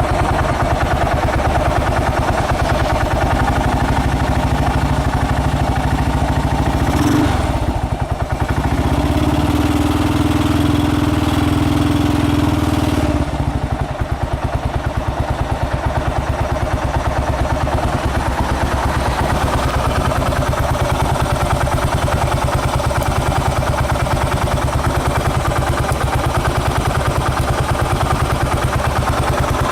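Yamaha SR400 single-cylinder four-stroke, bored to 534cc with an FCR41 carburetor, idling through its exhaust while warming up after a cold start. A steadier, higher note rides over the idle for a few seconds about a third of the way in, then drops away and the idle carries on evenly.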